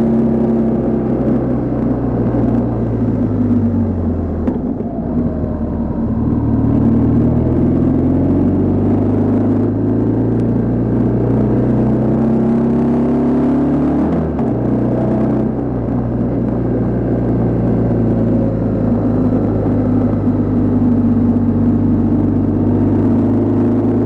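BMW R1200GS boxer-twin engine heard from the rider's seat on the move. Its note falls about four seconds in, climbs steadily for several seconds, drops sharply about fourteen seconds in, then runs fairly steady.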